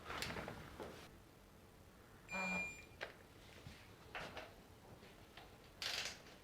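Quiet workshop handling of engine parts and tools: a few soft clicks and scrapes, and a short electronic beep about two and a half seconds in.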